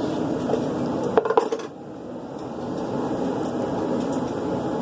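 A few light metal clinks about a second in, over a steady background hum.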